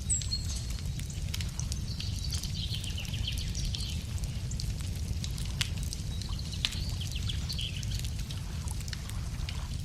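Wood campfire crackling with scattered sharp pops over a low steady rumble. A songbird sings two chattering, trilled phrases, one about two seconds in and another about six seconds in.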